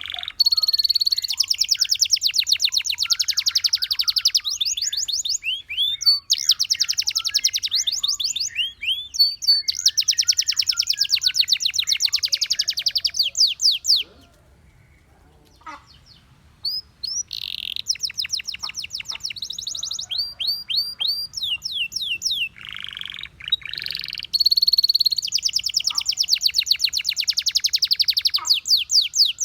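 Canary singing in long, fast rolling trills of rapidly repeated high notes, broken by a pause of about two seconds midway.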